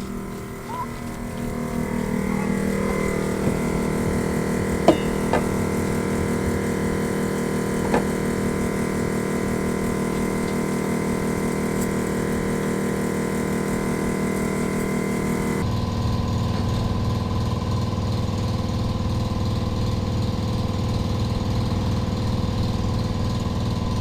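A machine running steadily with an even pulsing, with a few sharp clicks in the first third; the sound changes abruptly about two-thirds of the way through.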